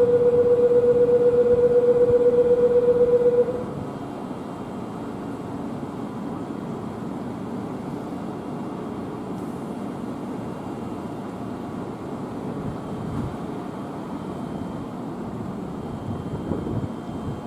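A station platform's electric departure bell rings with a steady, rapidly pulsing tone and cuts off suddenly about three and a half seconds in. A low, steady rumble of a waiting electric train follows, rising slightly near the end as the train begins to move.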